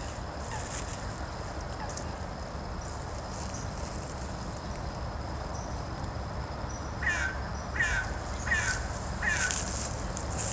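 A bird giving four short falling calls in quick succession, about two-thirds of the way in, over a steady low outdoor background.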